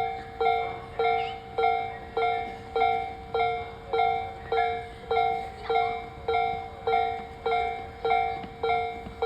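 Railway level-crossing warning alarm ringing as a train approaches: a two-note ding repeated a little under twice a second, each ding fading before the next.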